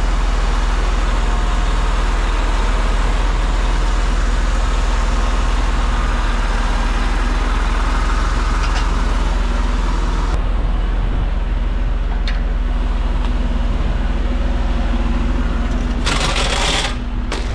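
Heavy truck engine running steadily with a deep hum, and a brief burst of hiss near the end.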